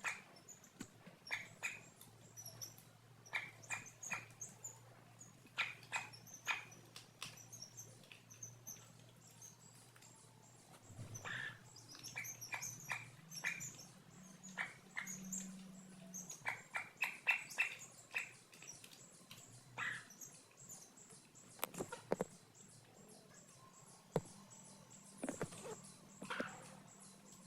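Chickens calling: short peeps and clucks in quick runs of three or four, with fainter higher chirps, repeating throughout. A couple of sharp clicks come near the end.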